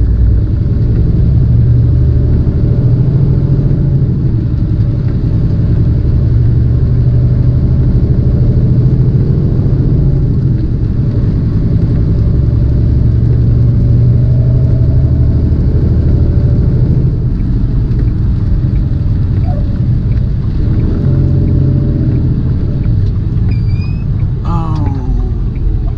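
Tractor-trailer's diesel engine droning steadily under load with road noise, heard from inside the cab.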